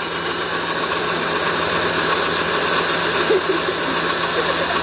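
Pressure washer running steadily, its motor humming under the hiss of the water spray.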